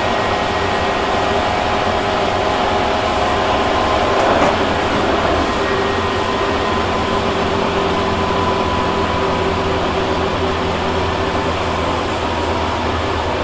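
Tobu 6050 series electric train running, heard from inside the motor car near the cab: a steady rumble of wheels and track with several held motor tones, the air conditioning running. A brief louder rush comes about four seconds in, after which the tones shift.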